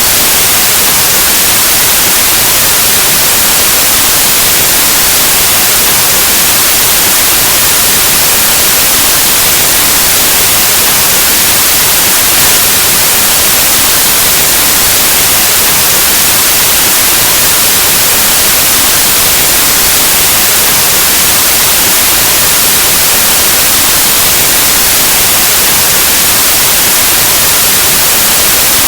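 Loud, steady white noise: an even, unchanging hiss like analog TV or radio static.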